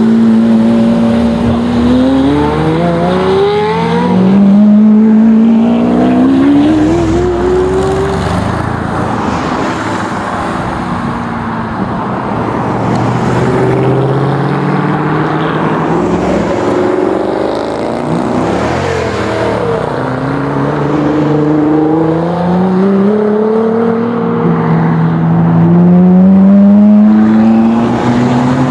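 Supercar engines accelerating away one after another, each note rising in pitch through a gear or two: a Lamborghini Murciélago SV's V12 pulling away at the start, a Mercedes C-Class sedan about halfway through, and more cars later, loudest again near the end.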